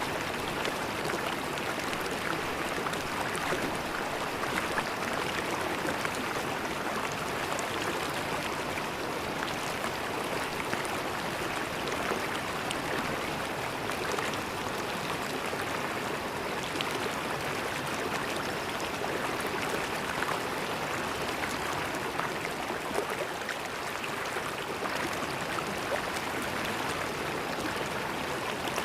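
River water flowing steadily over stones, a continuous rush with small gurgles and splashes.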